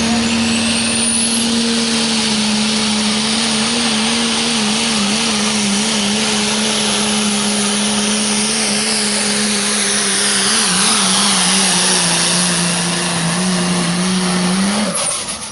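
Dodge Ram pro stock diesel pulling truck under full throttle on a pull, the engine holding one steady, slightly wavering note with a high turbo whistle above it. It cuts off about fifteen seconds in as the truck lets off at the end of the pull.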